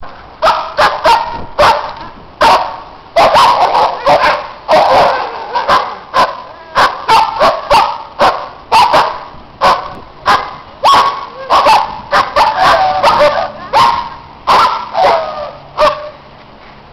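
Dogs barking loudly and repeatedly, about two barks a second, the barks sometimes overlapping, stopping about a second before the end.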